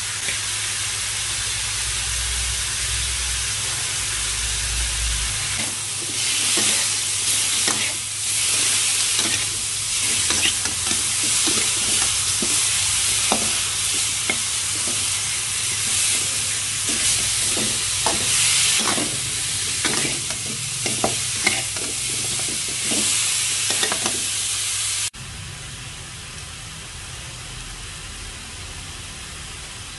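Pork pieces and ginger sizzling in a hot wok, with a spatula scraping and clacking against the pan as it stirs, the strokes coming thick from about six seconds in. Near the end the sound cuts off suddenly to a quieter, steady sizzle.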